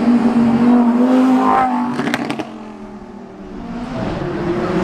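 Car engine held at steady high revs, then let off about two and a half seconds in, with a few sharp clicks. It is quieter for a moment, then revs rise again near the end.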